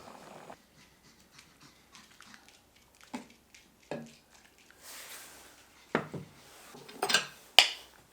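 Dishes and utensils knocking and clinking in a handful of separate clicks, the sharpest near the end, with a brief hiss of noise about five seconds in.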